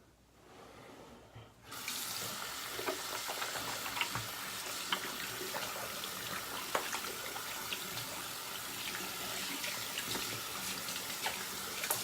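Tap water running into a bathroom sink, starting about two seconds in and running steadily, with small clicks and splashes from something being rinsed under it.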